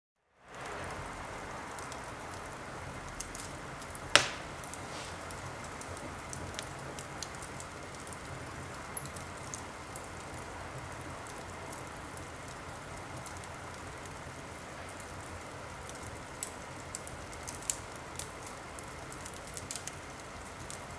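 Bonfire burning with a steady crackle and scattered sharp pops, one much louder pop about four seconds in.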